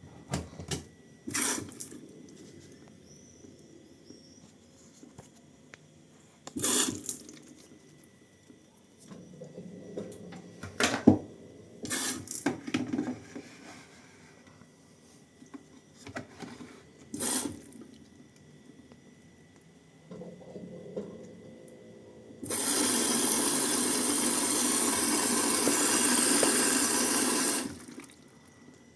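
A series of scattered handling knocks and clicks, then about five seconds of loud, steady running water that cuts off suddenly.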